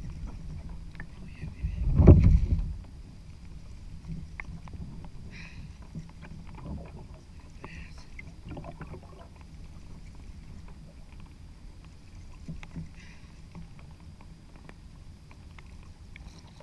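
A kayak on the open ocean: low rumble of water and wind around the hull, with small knocks and clicks, and one loud low thump about two seconds in.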